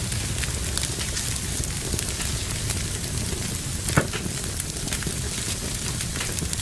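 Fire burning in a fireplace: a steady low rush with frequent small crackles, and one louder pop about four seconds in.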